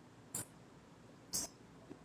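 Two brief soft clicks or rustles about a second apart over quiet room tone.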